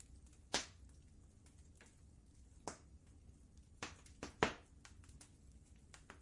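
Wood fire crackling in a fireplace: a few sharp pops, the loudest in a quick cluster just past the middle, among faint small ticks over a low steady rumble.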